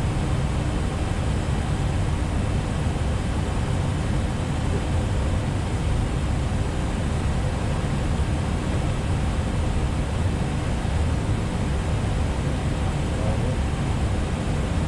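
Steady flight-deck noise of an Airbus A320neo on approach: airflow and engine hum at a constant level.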